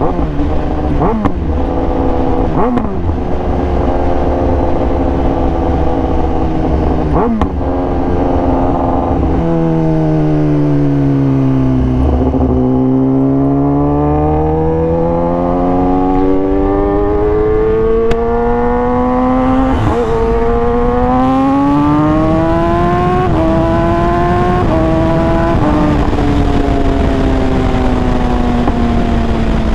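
Kawasaki Ninja ZX-10R superbike's inline-four engine running on the road, with wind rush. The engine note falls as the bike slows about ten seconds in, then climbs as it accelerates, with a few short steps in pitch along the way, and eases down near the end.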